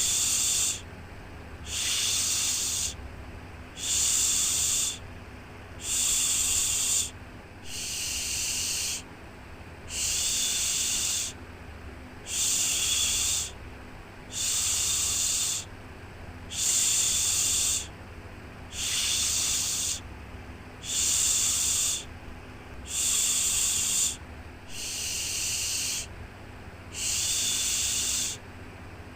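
Shushing 'shhh' sound for soothing a baby, repeated in a steady rhythm: each hush lasts about a second, about one every two seconds. A steady low rumble runs underneath.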